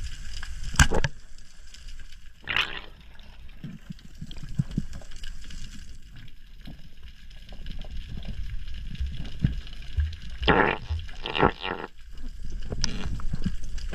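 Underwater water noise recorded on a spearfisher's camera: a steady low rumble, with short gurgling bubble bursts about two and a half seconds in and again around ten to twelve seconds in.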